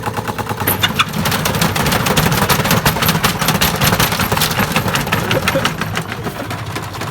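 Washing machine spinning with its drum badly off balance, banging and rattling in a fast, continuous clatter. The clatter picks up sharply about a second in and eases a little near the end.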